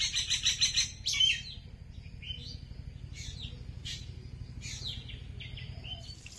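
Small birds chirping and singing: a fast trill of repeated high notes in the first second, a sharper call just after, then scattered short chirps, over a steady low hum.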